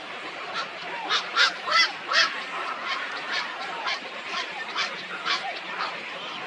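Birds calling in a run of short, sharp calls about twice a second, loudest between about one and two seconds in, over a steady background hiss.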